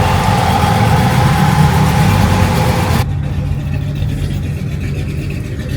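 A car engine running steadily with a low rumble. About halfway through it cuts off abruptly to a quieter, steady engine hum.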